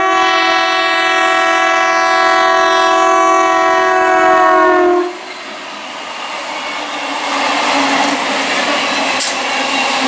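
Electric multiple unit (EMU) local train sounding one long horn blast that cuts off suddenly about five seconds in. The train then passes close, its wheels and carriages rushing and clattering on the rails, growing louder.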